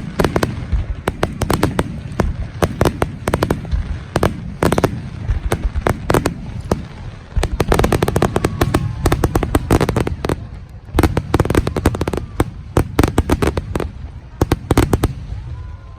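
Aerial fireworks display: a rapid barrage of shell bursts and crackling reports, many sharp bangs a second over a low rumble of echoes, dying away just before the end.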